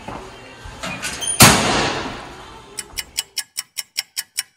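Light knocks, then a metal school locker door slams shut about one and a half seconds in, the loudest sound here. Near the end a fast, even clock ticking starts, about five ticks a second.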